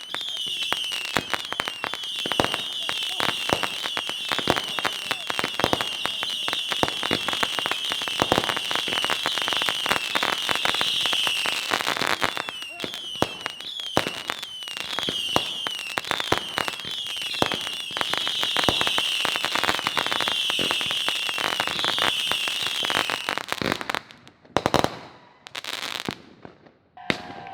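Consumer fireworks going off: a dense, rapid crackling barrage with continuous shrill whistling for most of the time, ending abruptly and followed by a few separate sharp bangs near the end.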